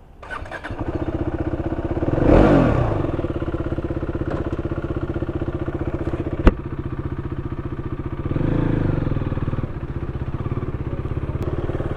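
Motorcycle engine coming to life about half a second in and then idling, with a quick rev that rises and falls about two seconds in and a smaller one near the end. A single sharp click about six and a half seconds in.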